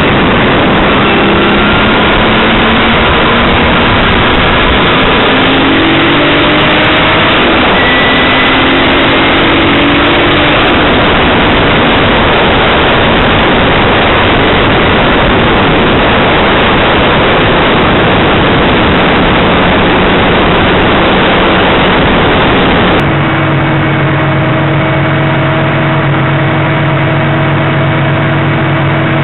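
Turbocharged VR6 engine of a mk2 Jetta, loud, running at highway speed under a dense rush of noise, with short rising engine tones in the first ten seconds. About 23 s in it cuts abruptly to the engine idling steadily.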